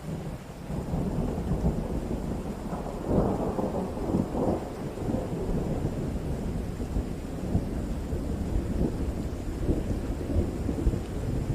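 Thunder rumbling over steady rain: a long rolling peal that builds just after the start, crackles loudest a few seconds in, and keeps grumbling on.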